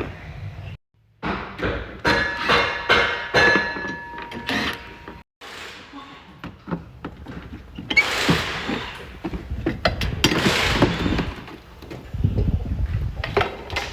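Hand tools and metal and plastic parts being handled while the windshield-wiper linkage and cowl are taken off: a run of knocks, clunks and clicks with stretches of scraping and rattling, broken by two abrupt cuts.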